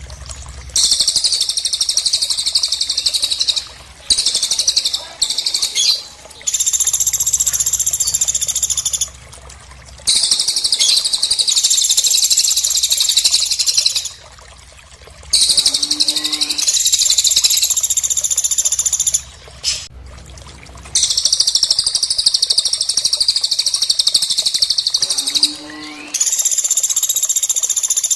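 Cililin and pelatuk songbirds singing: long runs of rapid, high-pitched trilling, each lasting a few seconds, broken by short pauses. A brief rising whistle comes twice.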